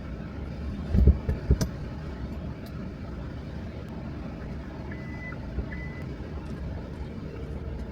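Steady low rumble with a few sharp thumps about a second in and two short high electronic beeps near the middle.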